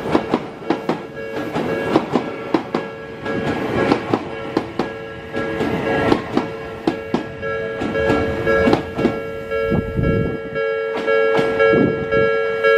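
Odakyu 3000-series ten-car train's wheels clattering over rail joints, a run of sharp, irregular clicks often in pairs. Under them a level-crossing warning bell rings steadily at one pitch and stops right at the end.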